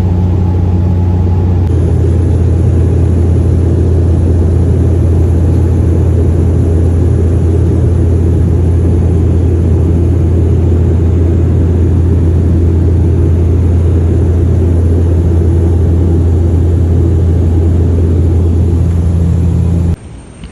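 A vehicle engine running steadily, heard as a loud, even low drone that cuts off abruptly near the end.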